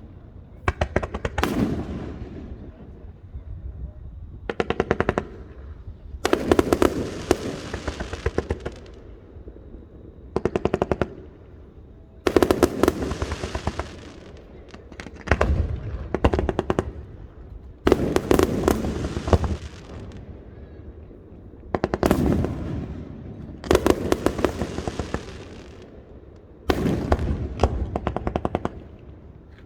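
Aerial fireworks firing in rapid salvos: each volley is a quick string of sharp bangs and cracks, about every two seconds, with a rumbling echo after each.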